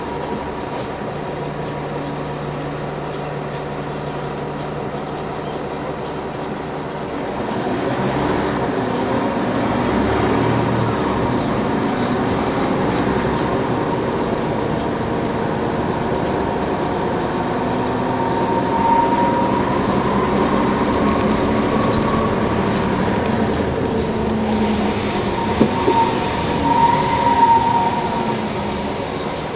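NovaBus low-floor city bus heard from on board: the diesel engine runs steadily at first, then about seven seconds in it gets louder as the bus pulls away and picks up speed. A whine from the drivetrain rises and falls as it goes through the gears, and the sound eases off near the end.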